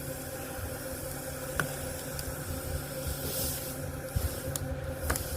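A steady background hum and hiss, with a few faint light clicks of small metal engine parts being handled as a spring is pushed back into place on an opened motorcycle engine.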